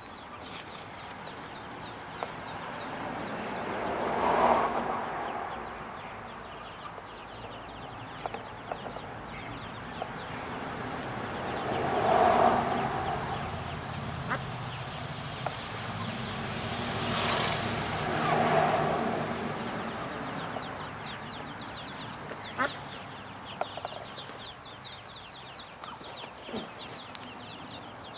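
Mallard ducklings peeping, many small high calls throughout. A louder, broad sound swells up and fades away three times, about four, twelve and eighteen seconds in.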